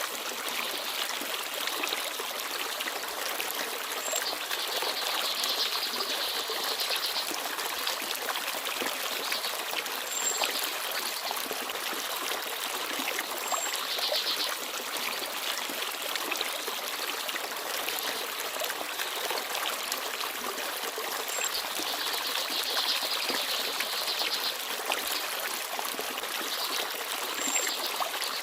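Small forest stream babbling and trickling steadily, with a few brief, faint high chirps of small birds now and then.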